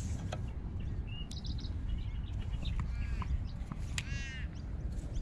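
Bird calls over wind rumbling on the microphone: a short whistled note about a second in, then quick runs of chirping calls around three and four seconds in. A few light clicks.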